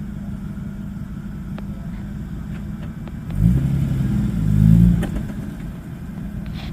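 4x4 engine running steadily at low revs, revving up with rising pitch a little past the middle for about a second and a half, then dropping back.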